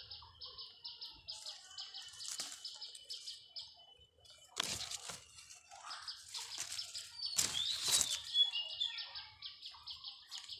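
Birds chirping: a rapid, evenly pulsing high trill runs through most of it, with a few quick sliding chirps past the middle. Several brief rustling knocks stand out, loudest a little after halfway.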